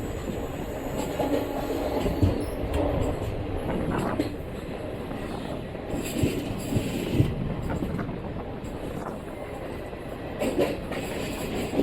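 Indian Railways passenger train running on the rails: a steady rumble with a few sharp clacks of wheels over rail joints spread through it.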